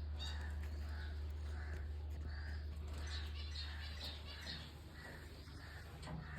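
Cockatiels chirping faintly in short, evenly repeated calls, about two a second, over a steady low hum.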